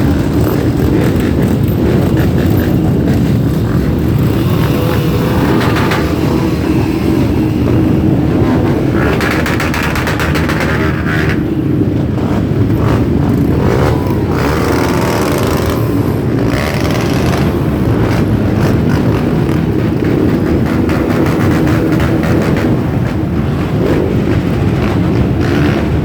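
Many motorcycle engines running at once as a group of bikes rides off, the sound swelling and easing several times.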